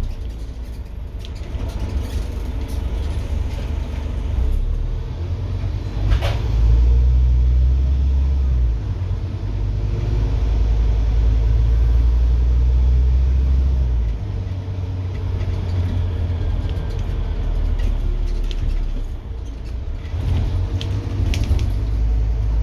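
Scania N230UD double-decker bus's five-cylinder diesel engine running, heard from on board. It pulls harder and louder from about six seconds in until about fourteen seconds, with a single sharp clunk just as it picks up.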